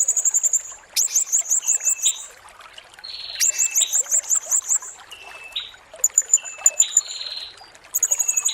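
Blue-crowned hanging parrot (serindit) singing: repeated bursts of rapid, very high-pitched trilled notes, with short, lower chirps recurring between the bursts.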